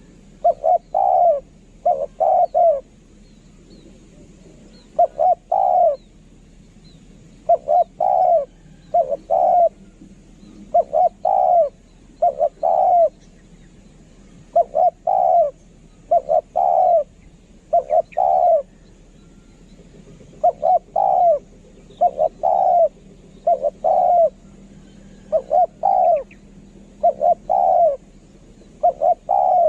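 Spotted dove cooing: loud low coos in short phrases of two to four notes, one phrase after another with brief pauses between. It is a dove lure call.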